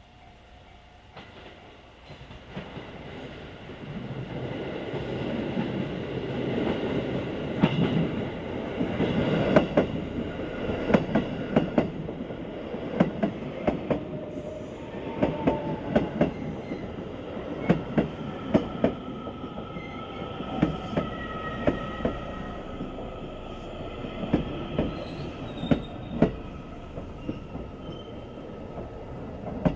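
JR West 207 series electric train pulling into a station, louder over the first several seconds, its wheels clicking over rail joints throughout. Thin wheel and brake squeals come in during the second half as it slows. It is running over a little-used platform track to clear rust off the rails.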